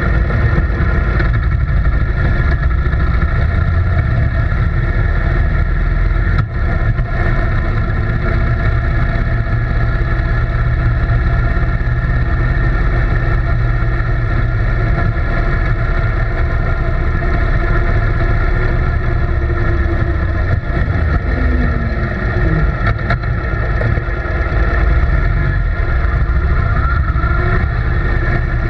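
A steady engine drone, running evenly without a break.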